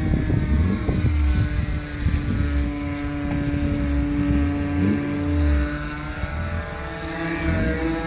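Engine of a Hangar 9 Piper Pawnee RC model airplane running steadily in flight, its pitch shifting slightly near the end. Wind buffets the microphone.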